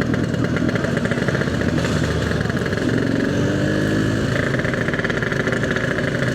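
Yamaha RX-King's single-cylinder two-stroke engine, fitted with an EnzyProject aftermarket exhaust, running steadily while riding along.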